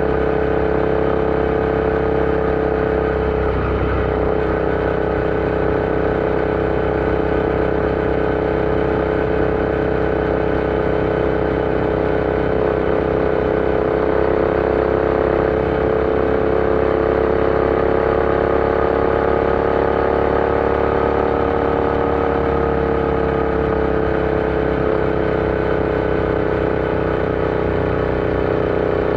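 Royal Enfield Interceptor 650's parallel-twin engine running at a steady cruise on the road. Its pitch rises slightly past the middle and eases back a little toward the end.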